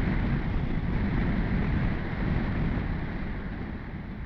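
Wind rushing over the microphone of a BMW R1200GS Adventure motorcycle on the move, with the bike's engine underneath. It fades gradually as the bike slows.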